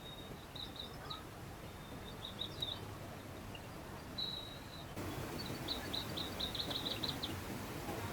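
Small birds singing high trills and held notes over the steady rush of a mountain stream. About five seconds in, the water noise gets louder and a fast run of about a dozen high chirps follows.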